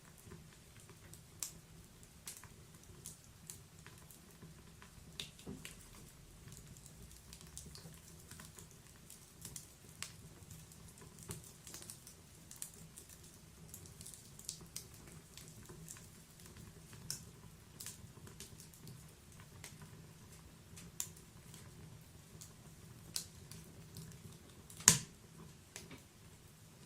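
Wood fire crackling: scattered small snaps and pops from burning logs, with one louder pop near the end.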